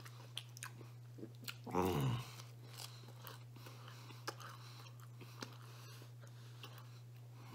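A man chewing pizza crust close to the microphone, with soft, crunchy clicks throughout. About two seconds in comes a brief low vocal sound that falls in pitch.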